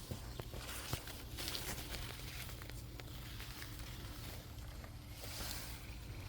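Outdoor garden ambience: a steady low rumble with a few light clicks and two brief rustles, about a second and a half in and near the end.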